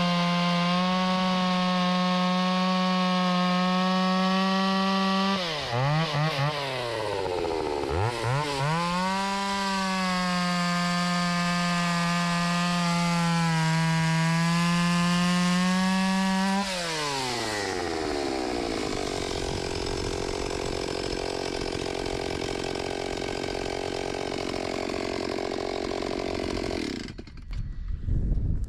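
Stihl 028 Wood Boss two-stroke chainsaw, its broken muffler freshly welded, running at full throttle through fir. The engine drops off and picks up twice, runs at full throttle again, then falls to idle for about ten seconds and cuts off sharply near the end.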